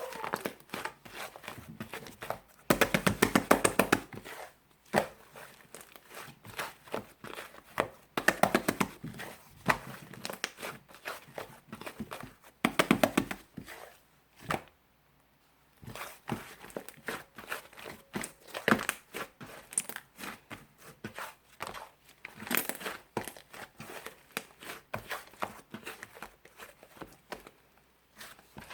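Crinkling and tearing handling sounds made up of many sharp clicks. There are dense bursts of rapid clicking about three, eight and thirteen seconds in, and a brief quiet pause after the third burst.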